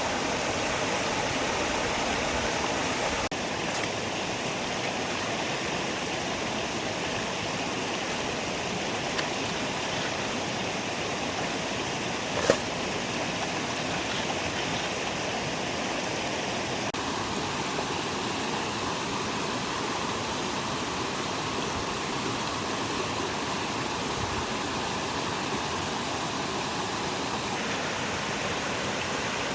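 Stream water rushing steadily over stones, with one sharp click partway through.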